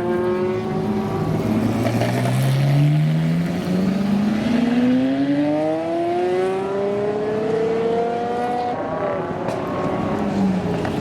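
Supercar engine accelerating hard, its pitch rising steadily for about seven seconds before it falls away near the end.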